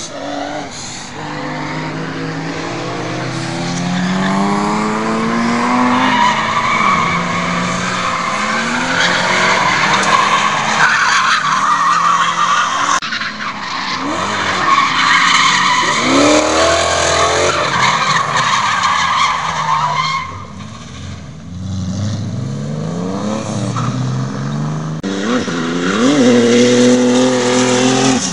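Drift cars sliding with tyres squealing in long skids while their engines rev up and down. Near the end, one engine revs hard and climbs in pitch.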